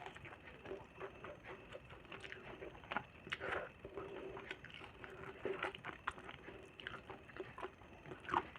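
A person eating close to the microphone: soft chewing and irregular wet mouth clicks and smacks.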